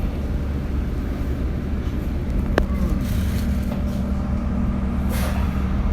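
Steady low engine rumble of road vehicles, with a sharp click about halfway through and a short hiss about five seconds in.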